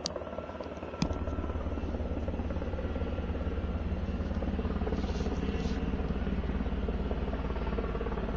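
Sikorsky UH-60 Black Hawk helicopter coming in, its rotor beating in a rapid, even pulse. A sharp click about a second in, after which the sound is fuller.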